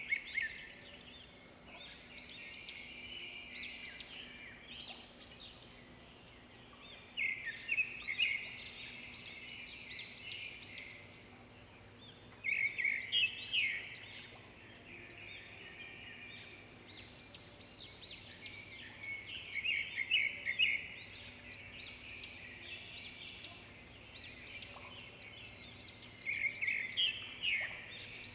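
Small birds chirping and chattering, with a loud burst of rapid calls every six or seven seconds and quieter calls between.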